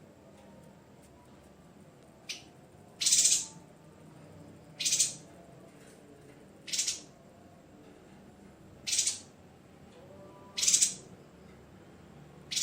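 Yuhina giving short, sharp, high-pitched calls, one about every two seconds, six in all, with a fainter one just before the first.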